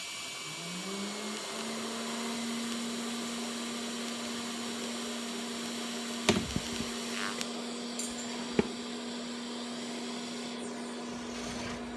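A small electric motor spinning up over about a second, then running at a steady pitch, with two sharp clicks about six and eight and a half seconds in.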